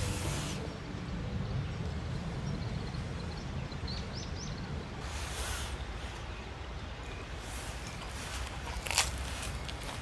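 Outdoor ambience: a steady low rumble, a few faint bird chirps about four seconds in, brief swishes, and a sharp click about nine seconds in.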